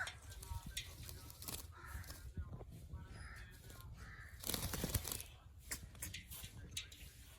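A pet parrot giving short, harsh squawks and chattering calls, with scattered sharp clicks and a louder burst of broad noise about four and a half seconds in.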